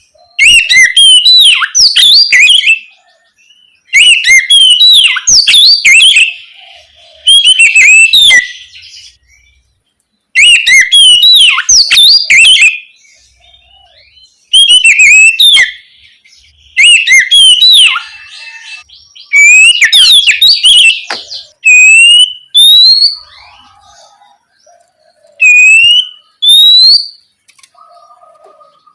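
Oriental magpie-robin (kacer) singing loud phrases of rapid, varied whistled notes, about two seconds each, with short pauses between them. Near the end the song changes to single, clear rising whistles. This is the loud, open 'ngeplong' singing style used as a lure to set other magpie-robins singing.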